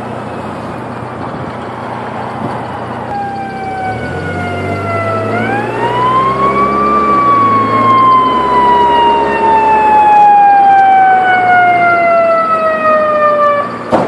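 Federal Q2B mechanical siren on a fire engine winding up to a peak and then coasting slowly down in pitch as the rotor spins down. A deep steady tone sounds underneath from about four to ten seconds in.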